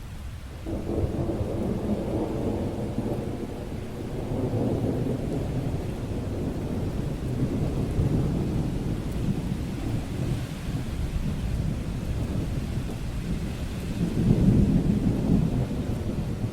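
Thunder rumbling through steady rain, swelling and easing several times, loudest near the end.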